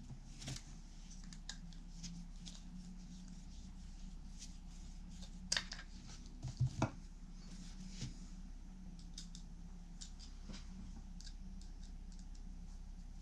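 Small hand tools snipping and clicking at a guitar workbench, scattered through, with sharper clicks about five and a half and seven seconds in, over a steady low hum.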